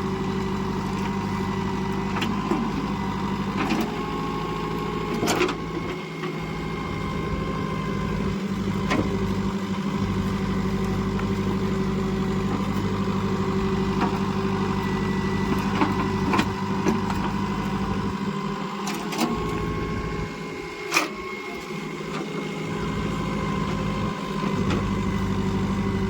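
Diesel engine of a JCB 2DX backhoe loader running steadily at a constant speed, with a few sharp clanks.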